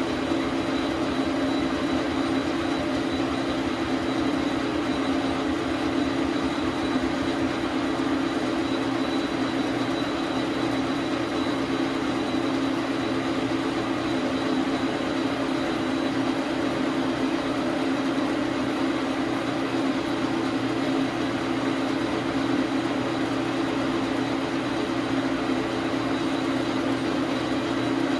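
Dar Sin 12 x 37 manual lathe running steadily with no change in speed, a constant hum with a thin high whine over it.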